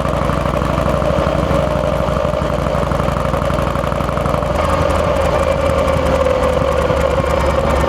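Harley-Davidson Fat Boy's Twin Cam 88 V-twin engine running steadily while the motorcycle is ridden; its low note changes about halfway through.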